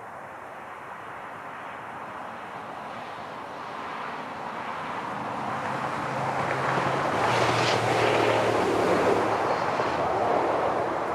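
Amtrak Silver Meteor passenger train approaching and passing at speed: a rushing of wheels and air that swells to its loudest about two-thirds of the way in, with a steady low diesel locomotive hum, and begins to fade near the end.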